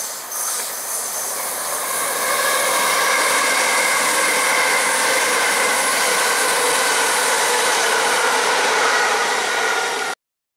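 c2c Bombardier Electrostar electric multiple unit passing close by, its rolling noise building over the first two seconds, then running loud and steady with a high whine over it. The sound cuts off suddenly near the end.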